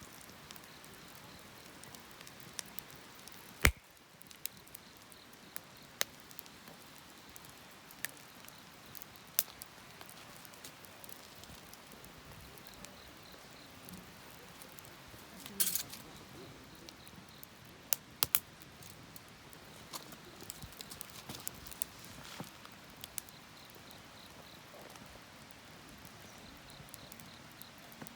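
Wood fire crackling: irregular sharp pops and snaps over a faint steady hiss, with one loud crack about four seconds in and a few bunched snaps a little past the middle.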